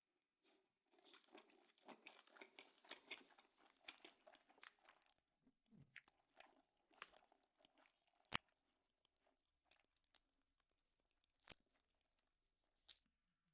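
Faint close-up chewing and wet mouth sounds of someone eating, busiest in the first few seconds and thinning out afterwards. One sharp click comes about 8 seconds in.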